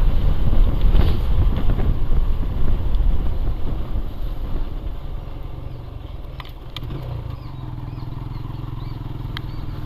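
Motorcycle on the move, its engine and road noise easing off as it slows about halfway through, then settling to a steadier, quieter low engine note.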